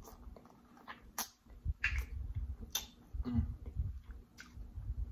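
Close-miked chewing of a mouthful of seafood-boil food: low chewing sounds with sharp wet mouth clicks and lip smacks about once a second, and a short hummed "mm" a little past three seconds in.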